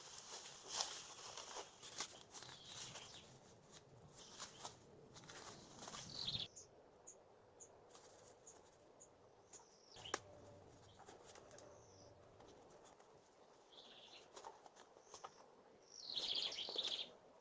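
Faint rustling and crackling of dry leaves and twigs being handled, with clicks, which stops suddenly about six seconds in. After that a few short, high bird chirps sound over quiet outdoor air, with a single sharp snap about ten seconds in and another brief burst of rustling near the end.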